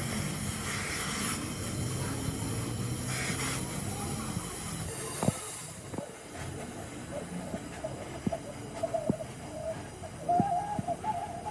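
A steady hiss for about the first six seconds, then scattered sharp knocks.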